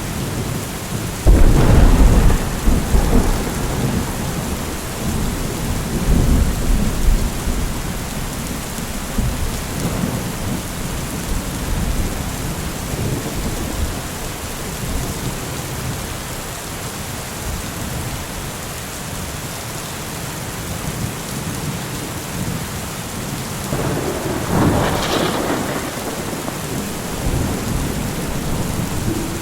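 Steady heavy rain falling, with a loud roll of thunder about a second in that rumbles and fades over several seconds, and a second, sharper peal of thunder near the end.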